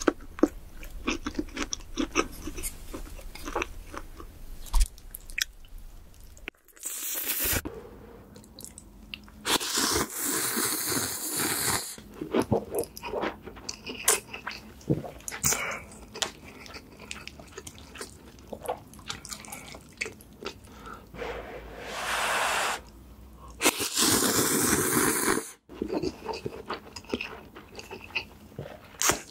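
Close-miked eating sounds: chewing and crunching with quick wet clicks, broken by several louder noisy stretches of a second or two.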